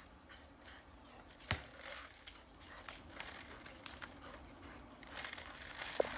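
Dog mouthing and pawing at a skateboard: faint crinkling and scratching with scattered small clicks, and one sharp knock about a second and a half in.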